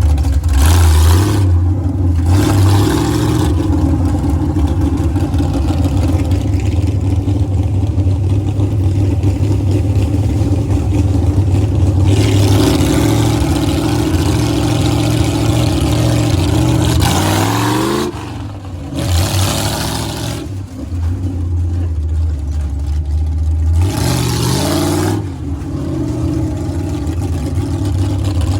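Monster truck engine running hard, with its pitch climbing twice as it revs up, once a little past halfway and again near the end.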